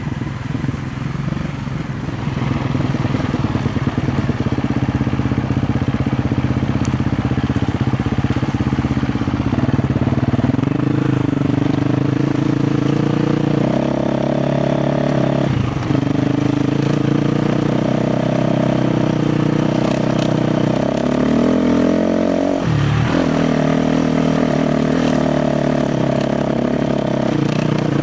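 KTM 350 XC-F's single-cylinder four-stroke engine pulling under load on a trail. The revs climb about ten seconds in, then drop off and pick up again twice, once just past halfway and again near the end.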